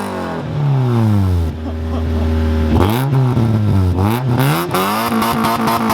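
Honda Civic four-cylinder engine revved hard from a cold start: the revs fall to a steady idle about a second and a half in, then it is blipped up and let fall several times in quick succession.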